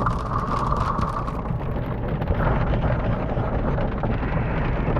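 Thunderstorm: heavy rain pouring with a steady low rumble of wind and thunder, and a crackle of drops that thins out about a second and a half in.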